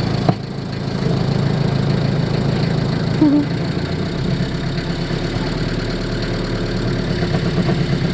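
Van engine idling steadily, heard from inside the cab where it sits under the doghouse cover, running on a freshly fitted timing belt. A single sharp click comes just after the start.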